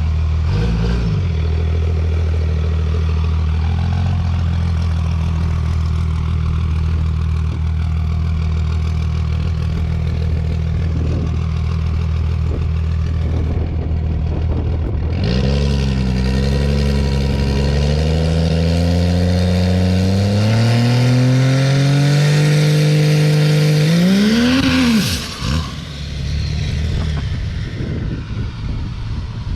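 Cummins diesel drag truck engine on a chassis dyno. It holds a steady note for about fifteen seconds, then climbs steadily in pitch and loudness for about nine seconds under load, flares once and drops off suddenly, leaving a rougher, quieter sound.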